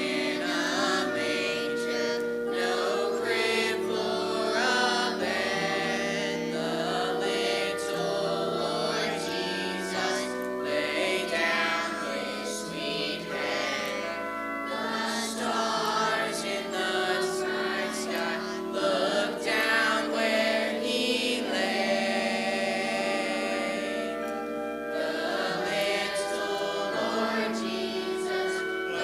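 Choir singing with instrumental accompaniment, long held notes.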